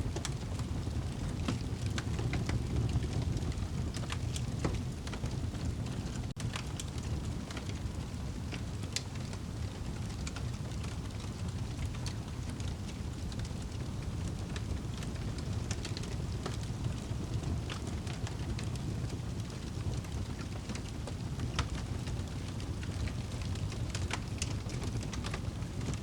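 Wood fire burning in a fireplace: a steady low rumble of the flames with scattered crackles and pops throughout.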